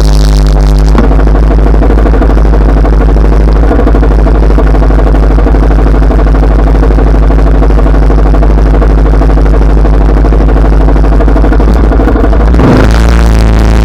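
Honda Rebel 300 motorcycle's single-cylinder engine running steadily while riding. The engine note changes near the end as the revs shift.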